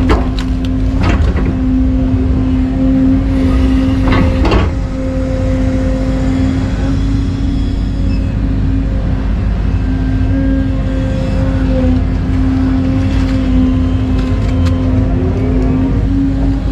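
Excavator's diesel engine running steadily under load with a constant whine, and a few sharp metal clanks about a second in and again around four seconds.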